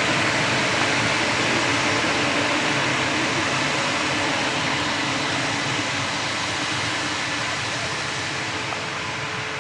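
Airbus A220-300's Pratt & Whitney PW1500G turbofan engines running, a steady jet noise that slowly fades.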